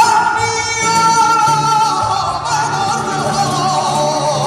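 Flamenco-style male singing: a long held, wavering note over a steady musical accompaniment with guitar.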